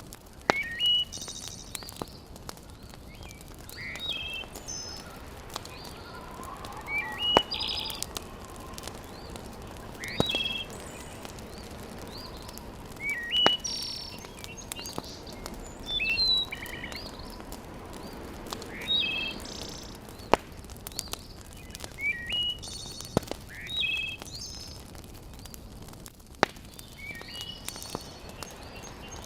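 Birds repeating a short chirping phrase about every three seconds, with single sharp pops of a wood fire crackling and a steady low hiss beneath.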